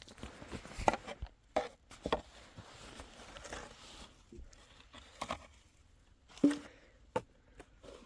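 A series of irregular knocks and thumps, the loudest about a second in and again near the end.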